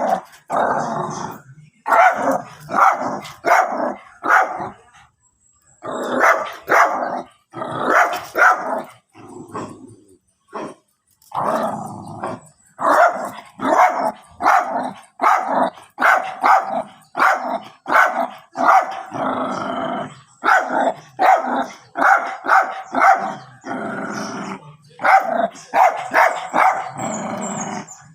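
Small dogs barking over and over in quick strings of short barks, pausing briefly about five and ten seconds in.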